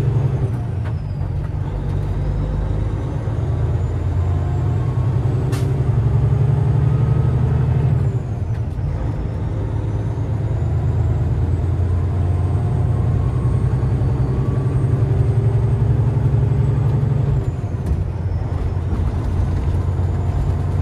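Heavy diesel semi-truck engine running under load, steady and loud, easing off briefly about eight seconds in and again near the end before pulling again.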